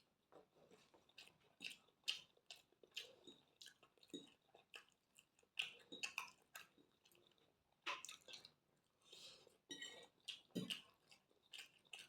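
A person chewing food close to the microphone: an irregular run of short mouth smacks and clicks, a few of them much louder than the rest.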